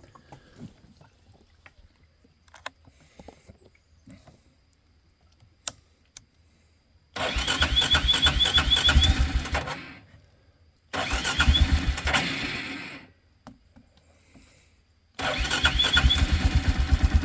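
A four-wheeler (ATV) engine being cranked over three times, each try a couple of seconds of fast, even chugging that stops without the engine catching. It has sat unused for about a week and a half and later needs the choke to start. A few faint clicks come before the first try.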